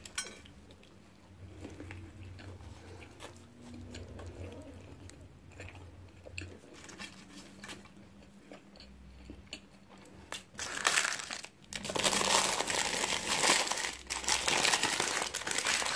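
Close-up chewing of a bite of cheeseburger, soft mouth sounds with small clicks. From about ten seconds in, a paper bag is handled, with loud crinkling that lasts to the end.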